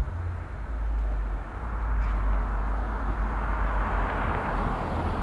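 A car passing on the street, its tyre noise swelling to a peak about four seconds in, over a heavy low rumble from wind buffeting the microphone that starts suddenly at the outset.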